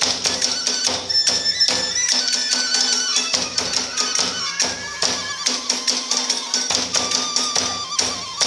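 Iwami kagura music: drums and hand cymbals beat a fast, dense rhythm under a bamboo flute melody.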